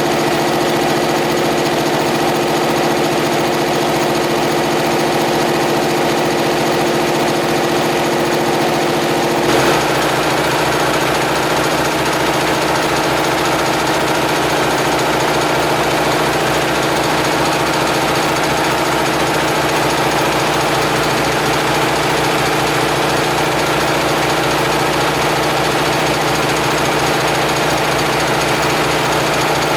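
Homemade air compressor running steadily and loudly. Its sound changes abruptly about ten seconds in, with more low rumble after.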